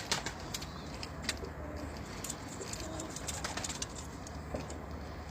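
Homing pigeons cooing in short low notes, with a few sharp clicks among them.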